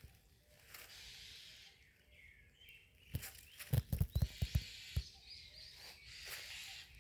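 Wild birds chirping and calling in a wetland chorus, broken about three seconds in by a quick run of sharp knocks, the loudest sound here.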